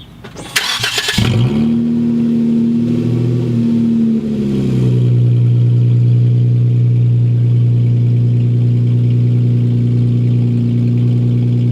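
A 2018 Jeep Wrangler JK's 3.6-litre V6 is started with its exhaust removed. It cranks briefly and catches about a second in, holds a raised idle, then drops to a loud, steady idle about four to five seconds in.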